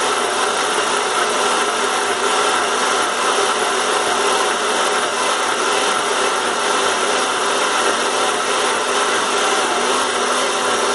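Electric blender running steadily, blending fruit and yogurt into a smoothie.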